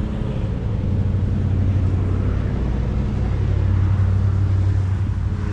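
A motor vehicle's engine running steadily, a low, even rumble.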